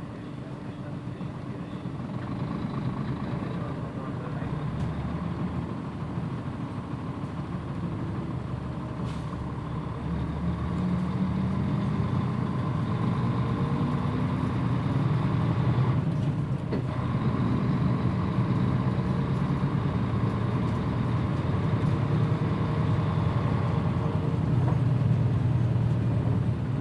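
Mitsubishi Fuso PJ-MP35JM bus's diesel engine pulling away and growing steadily louder as it gathers speed, with a brief dip partway through like a gear change.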